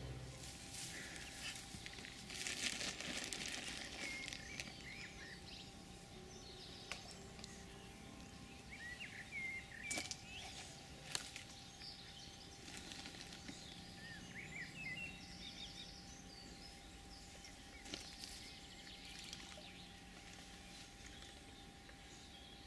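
Small birds chirping now and then over a faint outdoor background, with rustling in the first few seconds and a few sharp clicks.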